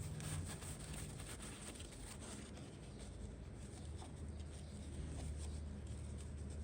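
Light clicks and rustles of small plastic toy pieces and packaging being handled, busiest in the first couple of seconds, over a low steady hum.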